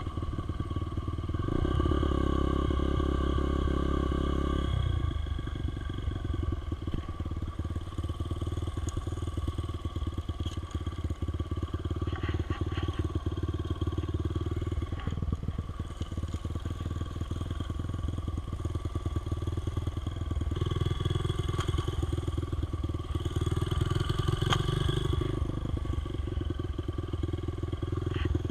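Dirt bike engine running under way, getting louder for a few seconds about two seconds in and again about three quarters of the way through.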